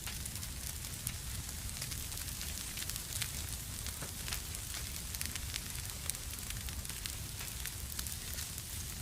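Fire in a fireplace crackling, with many small sharp pops scattered irregularly over a low steady rumble of the flames.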